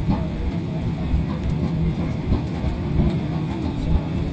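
Steady rumble of a moving train heard inside the carriage, with a crowd of football supporters singing and chanting over it.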